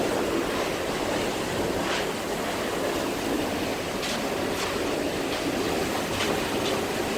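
Floodwater rushing past in a steady, continuous torrent, with a few faint knocks about two, four and six seconds in.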